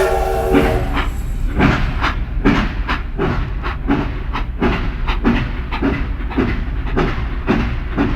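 Train sound: a steam whistle cuts off under a second in, then a steady rhythmic chuffing and rail clatter, about two to three beats a second, over a low rumble.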